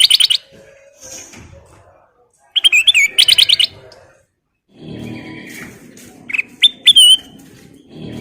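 Kutilang emas songbird singing: two bursts of quick repeated notes, at the start and about three seconds in, then a few short sharp rising whistles about two seconds later over a low background murmur.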